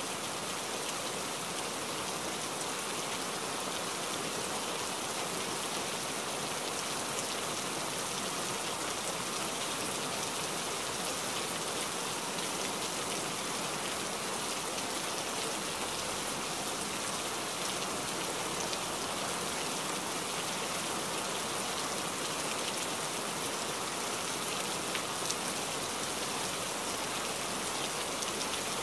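Steady rain falling, an even hiss with a fine patter of individual drops that holds unchanged throughout.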